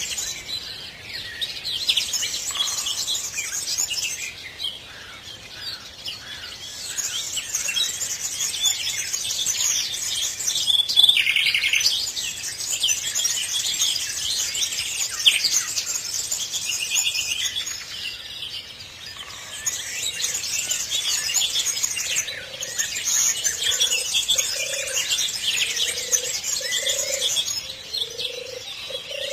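Many small birds chirping and singing at once in a dense chorus, with a low call repeating about once a second near the end.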